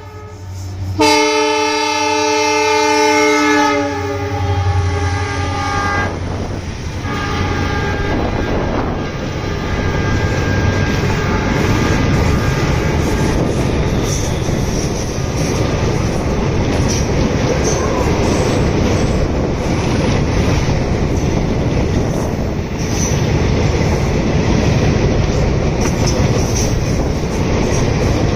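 Train horn sounding for about three seconds and dropping in pitch near the end as the train reaches the crossing. It is followed by the loud, steady rumble and rattle of a train passing at speed over the rails.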